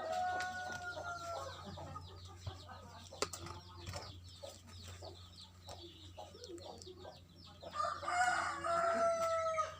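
A rooster crowing twice: one long call at the start and another near the end, each held and gently falling in pitch. Faint scattered clicks come between the calls.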